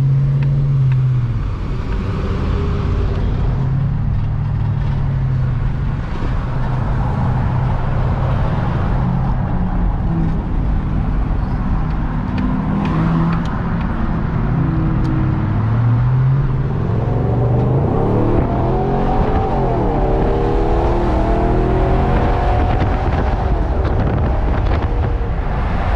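BMW X5 4.4i's V8 with mufflers and resonator deleted and an X-pipe fitted, heard through open windows while pulling onto a freeway, with wind and road noise. About 16 seconds in the exhaust note climbs in pitch as the engine revs up under acceleration.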